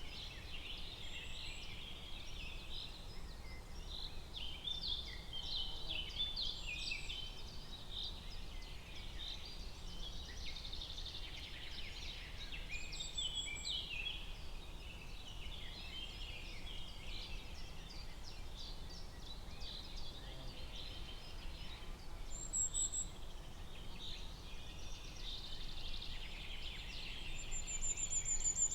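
Forest ambience: a dense chorus of birds calling and chattering, with a few high, thin whistles now and then, over a steady low background hiss.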